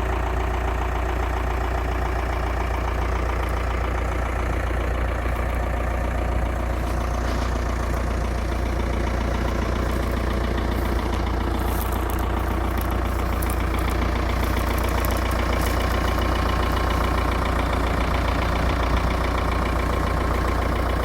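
Ebro Super 55 tractor engine running steadily at a low, even speed.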